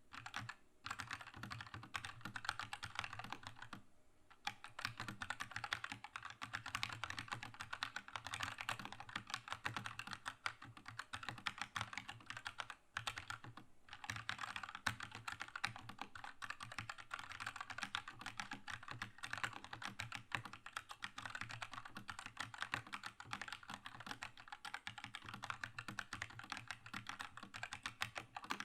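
Fast continuous typing on a Keychron K2 mechanical keyboard with linear red switches: a dense run of keystroke clacks, broken by brief pauses a few times.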